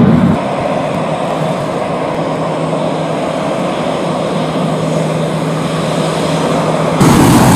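Airliner engines running with a steady rush and a low hum. Near the end there is a sudden jump to louder engine noise.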